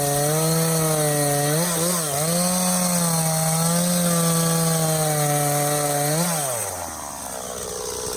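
Stihl MS 260 two-stroke chainsaw cutting through a log at high revs, its pitch sagging and recovering under load. About six seconds in it revs up briefly as it comes free of the cut, then drops back to idle.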